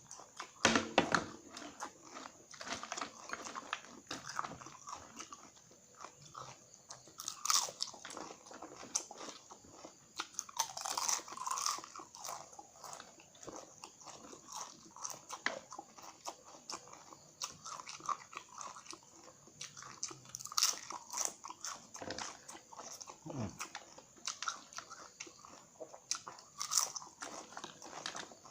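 Close-up crunching and chewing of crisp cassava chips, with irregular sharp crunches from bites and chewing.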